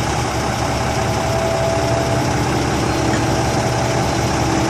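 Kobelco 115SR excavator's diesel engine running steadily while it works, with two steady whining tones held over the engine hum.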